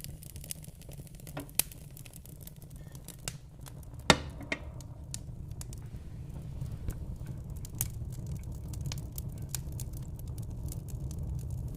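Fireplace fire burning with frequent sharp crackles and pops over a steady low rumble, one pop much louder than the rest about four seconds in.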